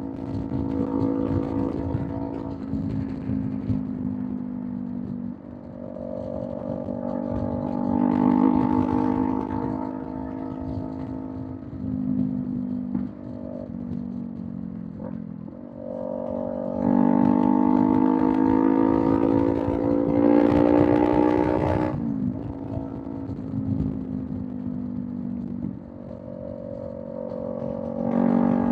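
Kawasaki Z400's parallel-twin engine through a Villain M1 aftermarket exhaust, pulling hard at highway speed. Its pitch climbs in several pulls, the longest peaking about 22 seconds in and then dropping sharply as the throttle closes or the rider shifts. A steady rush of wind and road noise runs underneath.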